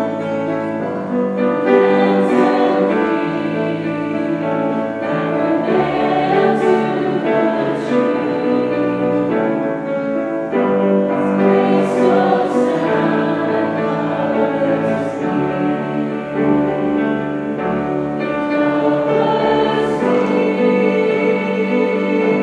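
Choir singing, many voices together, with high hissing consonants now and then.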